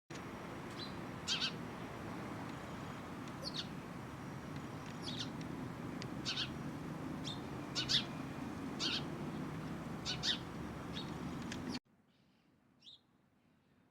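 A bird giving short, sharp high-pitched chirps, about one every second, irregularly spaced, over steady low background noise. Near the end the sound drops off suddenly to a much quieter background with one faint chirp.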